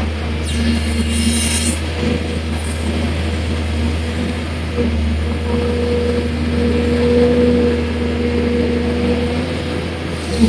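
Excavator's diesel engine running steadily, its note swelling and easing as the hydraulics take load, over the hiss of heavy rain. A brief sharper hiss comes about half a second in.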